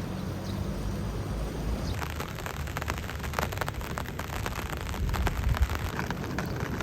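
Rain falling, with many separate drop hits from about two seconds in, over a low steady rumble.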